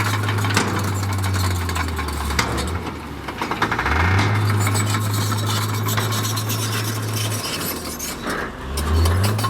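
Diesel engine of heavy earthmoving equipment running. Its speed sags twice and picks back up each time, as it does when the machine takes on load and is throttled up again. Scattered knocks are heard over it.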